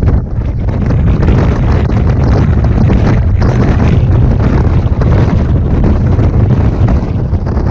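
Strong wind buffeting the camera microphone on an exposed winter mountain, a loud, rough, low rumble that holds steady with constant gusting.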